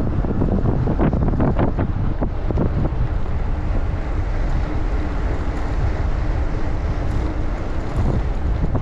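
Wind buffeting the microphone: a loud, steady, low rumble, gustier in the first couple of seconds.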